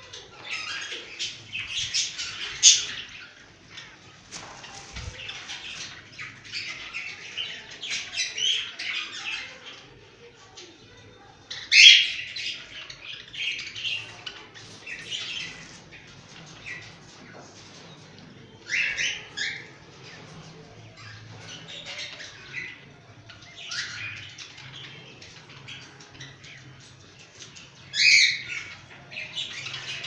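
A flock of small cage birds chirping and chattering nonstop, with a few louder squawks now and then.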